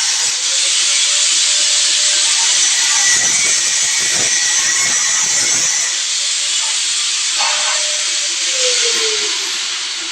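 Power sprayer shooting a high-pressure water jet: a loud, steady hiss. A fainter tone slides down in pitch near the end.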